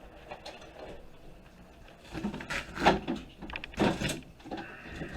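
Parts of a computer being handled and pulled apart by hand: faint scattered clicks at first, then about two seconds in a run of knocks and clatter, the loudest about three and four seconds in.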